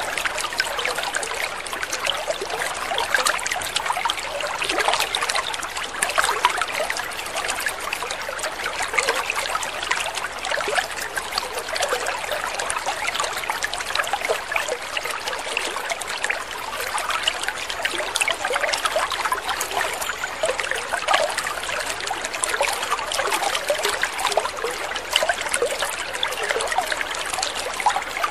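Water trickling and splashing steadily, a continuous babble of many small drips and splashes.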